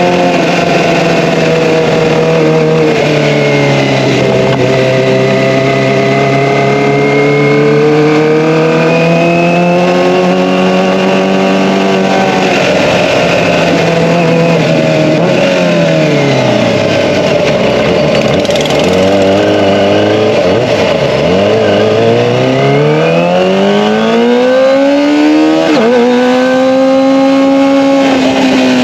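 Kawasaki ZX-25R's 250 cc inline-four running through an Akrapovic Evolution exhaust while being ridden. Its pitch rises and falls with the throttle, dropping away twice in the middle and then climbing steadily over the last few seconds.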